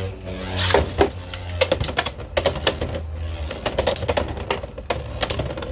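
Beyblade X tops (Hells Scythe and Knight Shield) spinning and colliding in the stadium, with rapid irregular plastic-and-metal clacks over a steady spinning whir that dies away about three and a half seconds in. Some of the clacks are the ratcheting of a top's gear bit on the Xtreme line rail during extreme dashes.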